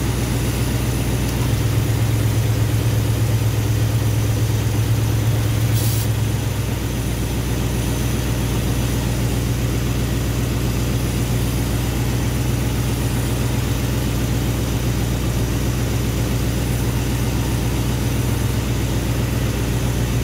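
Mopar V8 idling steadily with its hood open, running a little louder for a few seconds near the start. A single sharp click about six seconds in.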